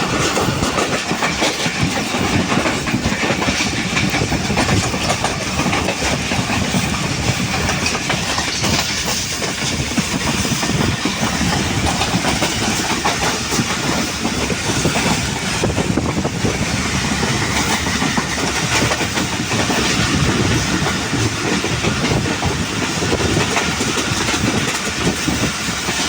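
Passenger train running along the track: a steady rumble with the clatter of coach wheels over the rails.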